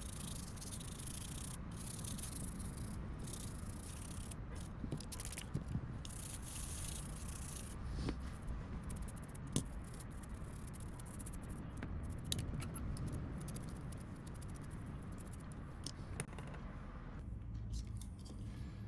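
Small, scattered clicks and scraping from handling and working on small phone parts, over a steady low hum.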